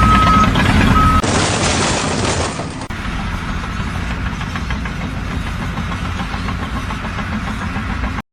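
Heavy machinery engine running loudly with a repeating beep, then an abrupt cut to a short burst of noise and then a steady machine din, which stops suddenly near the end.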